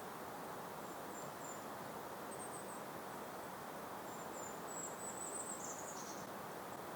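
Steady hiss of a gentle breeze, with faint, very high, thin bird calls scattered through. The longest call comes about four to six seconds in and ends in a short downward slur.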